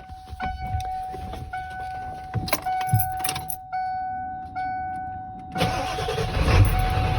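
A truck's dashboard warning chime dings about once a second, with a few clicks and key rattles, then about five and a half seconds in the 1997 Ford F-250's 7.3 L Power Stroke V8 turbo diesel cranks, fires and runs on at a cold start.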